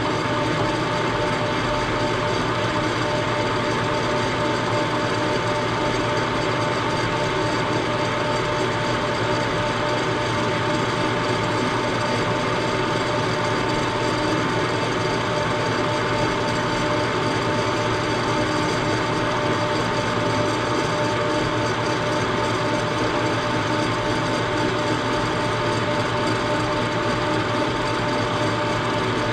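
Milling machine running steadily with a constant whine while its cutter takes a facing cut across the front of an engine frame.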